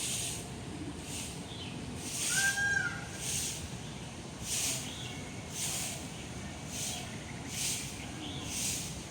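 Owl hissing in short breathy bursts, roughly one a second, with a brief whistled call about two and a half seconds in.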